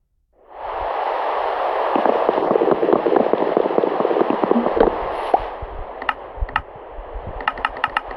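Heavy rain falling, with many sharp drop impacts in the steady hiss. It eases about five and a half seconds in, and a quick run of sharp ticks follows near the end.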